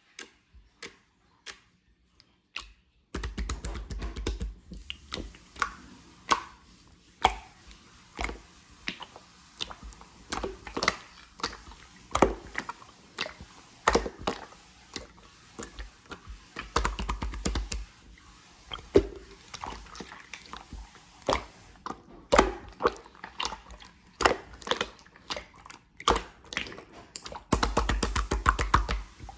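Clear slime being pressed and stretched by hand, giving irregular sharp clicks and pops of trapped air bubbles. The first few seconds hold only a few clicks; after that they come thick and fast over a low rumble of handling.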